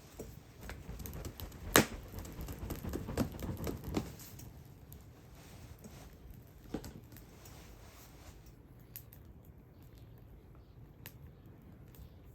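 Wood fire crackling, with sharp pops. The loudest pop comes about two seconds in; the crackling is busiest in the first four seconds and then thins to occasional snaps.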